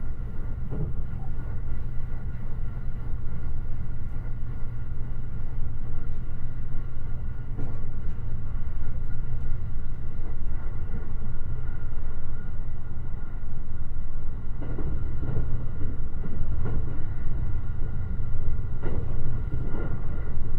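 JR Limited Express Shirasagi electric train running at speed: a steady low rumble of wheels on rail, with a faint steady hum over it. A few sharp clacks of the wheels over rail joints come through, more often in the second half.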